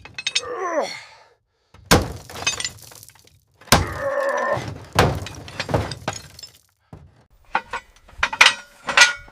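Metal parts of a corroded helicopter airframe clanking and scraping as they are worked loose: a creaking squeal near the start, several sharp knocks, a ringing scrape about four seconds in, and a burst of clatter near the end.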